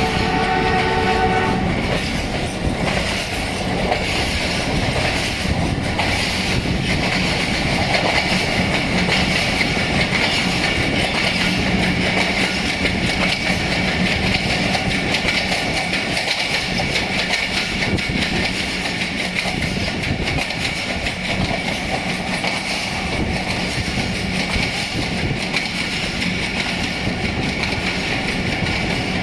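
A ZCU-20 diesel locomotive's horn sounds a multi-note chord that cuts off about a second and a half in. Then comes the steady running noise of the passenger train: wheels clattering along the track under a constant drone.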